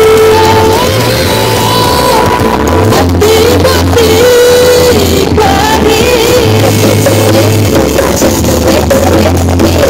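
Loud music played through a large carnival sound system: a sung melody over deep bass notes that are each held for about a second.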